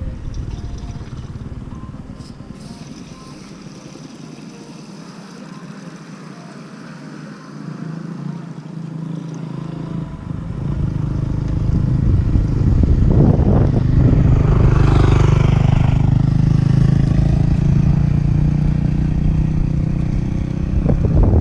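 Off-road motorcycle engine running, low at first and then getting louder about halfway through and holding steady.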